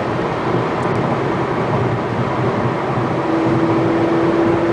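Steady road and wind noise inside a car cabin at highway speed, with a steady hum coming in about three seconds in.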